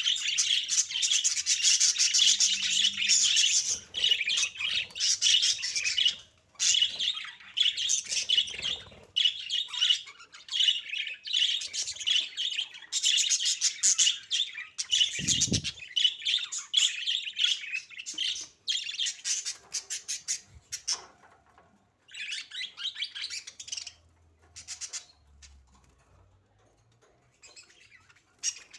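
Budgerigars chattering and warbling continuously, thinning into scattered bursts in the last third and growing faint near the end. A single low thump comes about halfway through.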